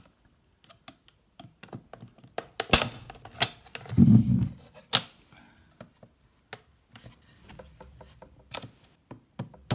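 Knife blade prying and scraping at the plastic casing of a ResMed S8 CPAP machine to lift off the button panel: irregular plastic clicks and knocks, with a dull thump about four seconds in.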